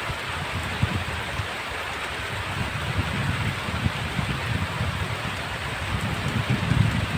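Heavy rain falling steadily, with uneven low rumbles underneath that grow stronger near the end.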